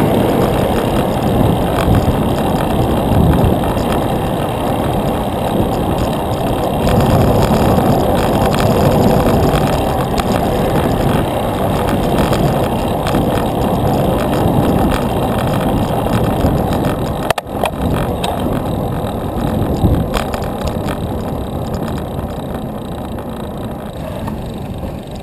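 Steady wind rumble buffeting the microphone of a camera on a moving bicycle, mixed with road noise, with a brief dip about two-thirds of the way through.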